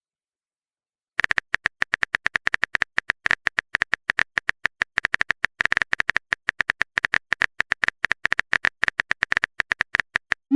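Rapid, irregular clicking of a keyboard-typing sound effect, many clicks a second, starting about a second in and running until near the end, where a short rising swoosh begins.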